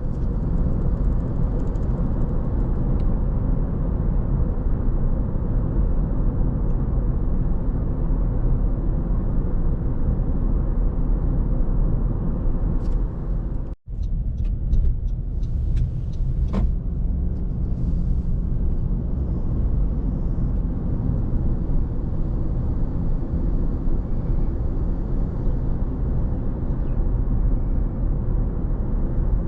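Car driving at steady speed: a continuous low rumble of engine and tyres on the road. The sound cuts out for an instant about halfway through, then carries on as before.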